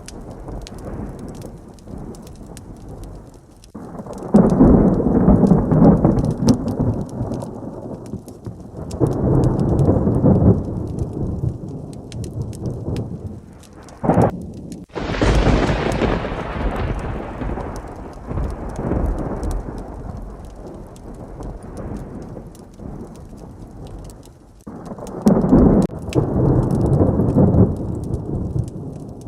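Steady heavy rain with thunder rolling several times. About fourteen seconds in a sharp close crack is followed by a loud crash that fades into a long rumble.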